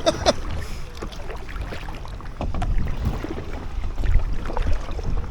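Wind buffeting the microphone in gusts, over faint splashing of kayak paddle strokes in canal water.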